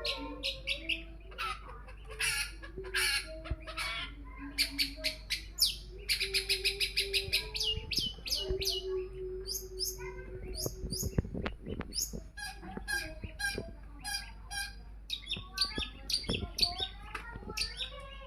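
Long-tailed shrike (pentet) singing a varied, rapid run of harsh chirps and trills, with a fast stuttering series of notes about six seconds in and lower, longer notes underneath. It is a lure song of the kind played to set other shrikes singing.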